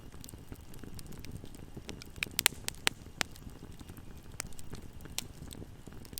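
Wood fire in a fireplace burning with a low steady rumble and scattered crackles and pops, a quick run of sharper, louder pops a little past two seconds in.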